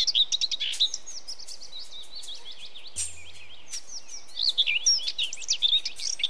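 Several birds singing, with quick chirps and trills that rise and fall in pitch, over a faint steady hiss; a brief low hum comes in about three seconds in.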